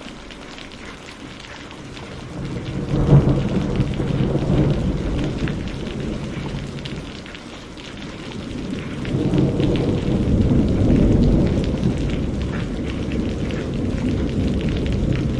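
Steady rain falling, with thunder rumbling twice over it: a first peal sets in with a sharp crack about three seconds in and fades away, then a second, longer roll builds after about nine seconds and slowly dies down.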